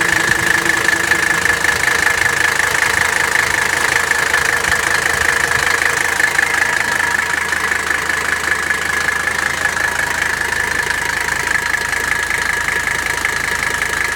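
1984 Mercedes-Benz 300CD's five-cylinder turbodiesel idling steadily in the first half-minute after a cold start, with a steady high-pitched whine over the engine noise.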